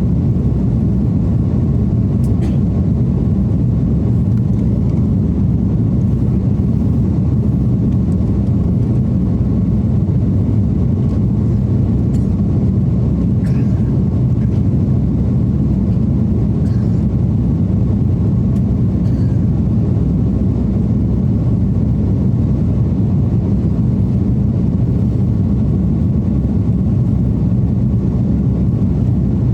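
Airliner cabin noise in flight: the steady, low roar of the jet engines and the airflow, heard from inside the cabin, with a few faint ticks.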